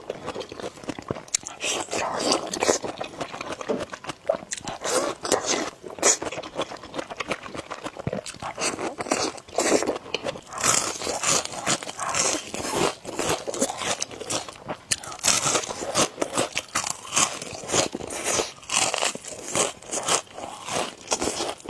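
A person eating noodles close to the microphone: continuous chewing and mouth sounds, a dense, irregular run of quick wet clicks and smacks.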